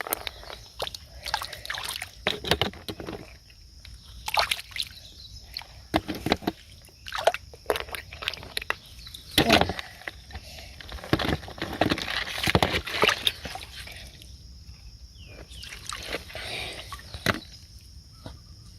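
Shallow water sloshing and splashing in irregular bursts, some loud and some soft, as something is moved through it.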